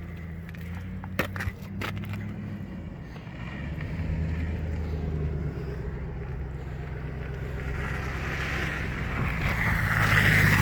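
Pickup truck engine running and drawing nearer, growing louder over the last few seconds. A few sharp clicks a little over a second in.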